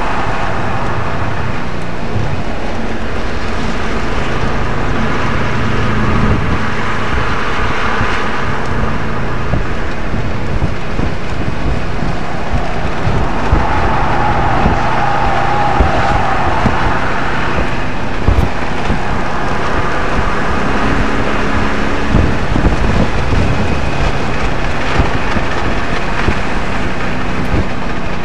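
2007 Audi RS 4's 4.2-litre V8 engine heard from inside the cabin while lapping a track, its revs rising and falling repeatedly through corners and gear changes, over steady road and wind noise.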